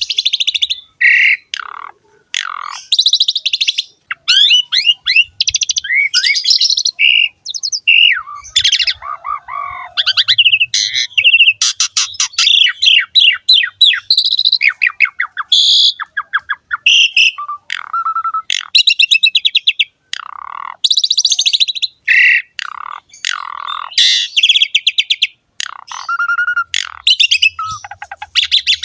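Asian pied starling (jalak suren) singing its full song almost without pause: a varied run of whistled slurs, fast chattering trills and rougher notes, with only short breaks between phrases.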